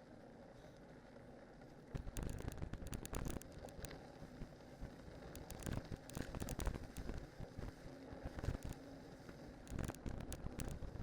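Cyclocross bike on studded tyres riding downhill over rough ground: tyre crunch and frame rattle in uneven jolting bursts, starting about two seconds in after a quieter steady hiss.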